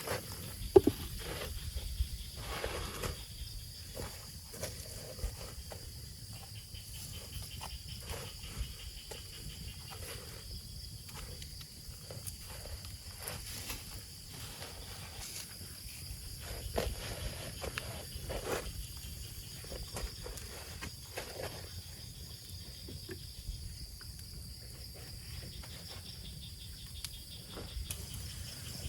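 Insects, crickets or cicadas, chirring steadily in the forest, with scattered close knocks, taps and rustles of handling or footsteps throughout.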